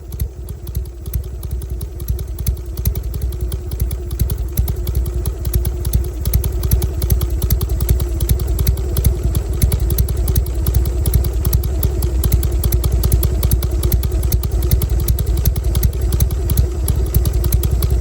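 Harley-Davidson Sportster 1200's air-cooled V-twin running steadily through a muffler punched out to a 30 mm bore, giving a loud, uneven 'potato' exhaust beat. It gets a little louder about two seconds in.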